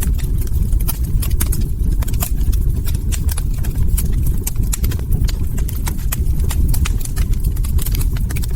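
Log fire crackling: many sharp, irregular pops and snaps, several a second, over a steady low rumble of the burning fire.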